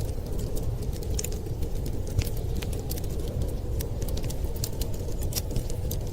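Fireplace fire crackling, with frequent small sharp pops at irregular intervals over a steady low rumble.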